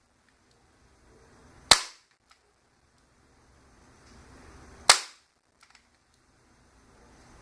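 Small nail gun firing twice, about three seconds apart, each a sharp loud snap followed by a faint click, driving nails into square wooden dowels.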